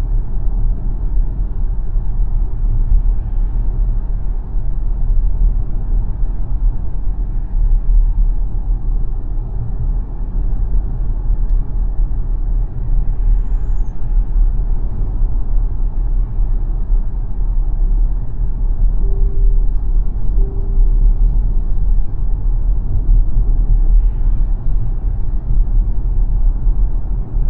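Steady low road and tyre rumble of the XPENG G9 electric SUV driving, with no engine note. Two short tones sound about two-thirds of the way in.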